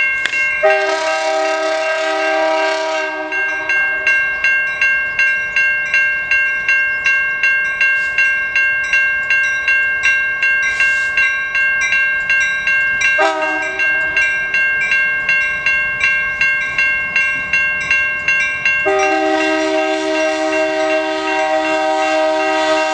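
Grade-crossing bell ringing steadily, about two strokes a second, as the crossing is activated for a CN freight train. The locomotive's horn sounds a chord three times: for about two seconds near the start, briefly about 13 seconds in, and again from about 19 seconds on.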